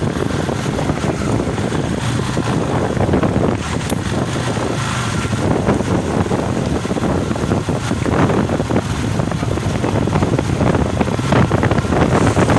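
Motorcycle on the move: steady engine and road noise mixed with wind rushing over the microphone.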